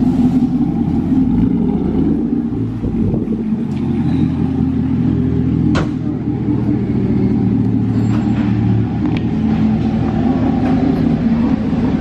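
A vehicle engine running steadily with a low rumble, with a sharp click about six seconds in.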